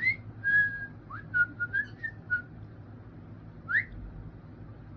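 Pet cockatiels whistling. A rising whistle is followed by a held note, then a run of short whistled notes, and another quick upward whistle near the end.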